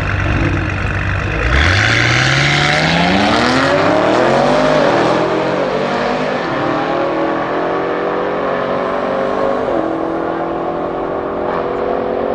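Tuned Audi RS Q8's twin-turbo V8 held at steady revs, then accelerating hard about a second and a half in: the pitch climbs fast, drops at a gear change near five seconds, then rises slowly through the next gear with another shift near ten seconds.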